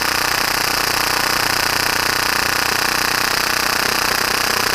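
Full-auto Tokyo Marui Hi-Capa gas blowback airsoft pistol firing one continuous burst at about 30 rounds per second, a steady, very fast rattle of shots and slide cycling as a whole magazine is emptied.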